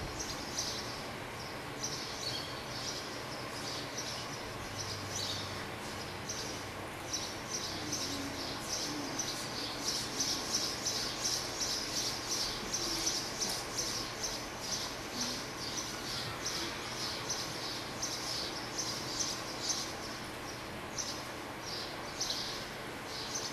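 Small birds chirping: a continuous run of short, high chirps, busiest around the middle.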